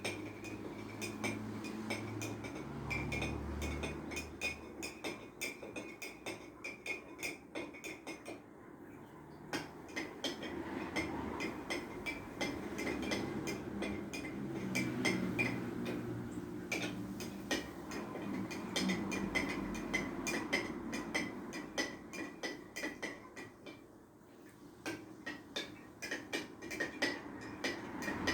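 A spoon stirring hot water with sea salt in it, clinking rapidly and irregularly against the side of the container as the salt dissolves.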